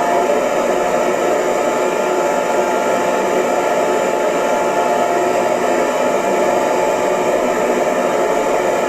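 Hair dryer running steadily: an even rush of blown air with a faint steady motor whine. A higher tone in it fades out right at the start.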